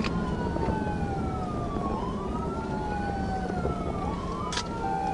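Police car siren wailing, its pitch rising and falling slowly every couple of seconds, over the steady engine and road rumble of the pursuing patrol car. There is a short click near the end.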